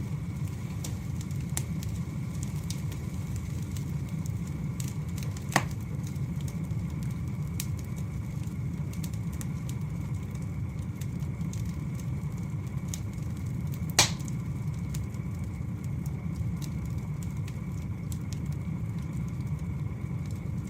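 Wood fire burning: a steady low rumble of flames with scattered faint crackles, and two sharp, louder pops, one about a quarter of the way in and one about two-thirds of the way in.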